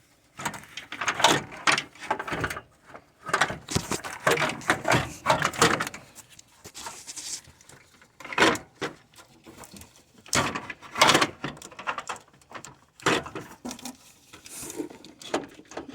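Irregular knocks, clunks and scraping of a radiator cooling fan assembly being worked back into place.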